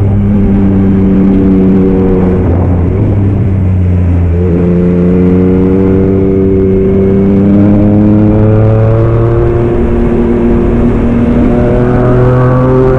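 Yamaha MT-09 SP's three-cylinder engine through a Black Widow aftermarket exhaust, heard from the rider's seat. The note holds steady, changes a few seconds in, then climbs slowly and steadily in pitch as the bike accelerates in one gear, dropping suddenly at the very end as it shifts.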